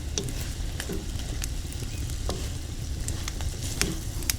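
Food sizzling over a wood fire, with scattered sharp pops and crackles, as it finishes cooking.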